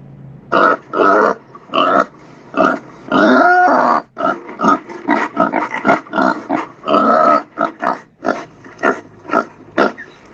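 Pig grunting and oinking in a rapid series of short calls, with one longer, drawn-out squeal about three seconds in.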